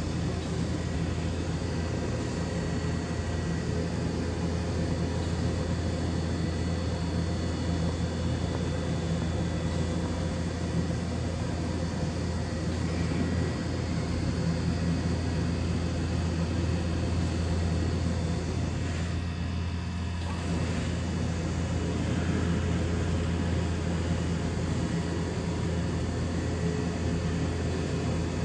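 CNC machining centre running: a steady low machine hum with faint steady whines above it.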